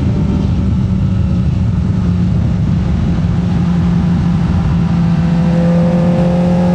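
Kawasaki ZX25R's 250 cc inline-four engine running at a steady, held speed under way on a track, with heavy wind rush over the microphone.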